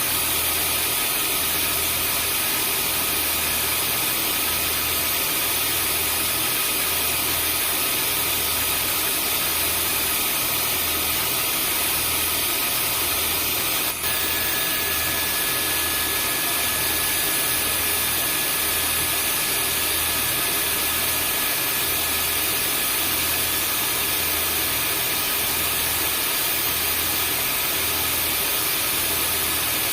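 Vacuum cleaner running continuously: a steady motor whine and airflow hiss over a slow low throb. About halfway through the sound dips for an instant and a faint high steady whistle joins after it.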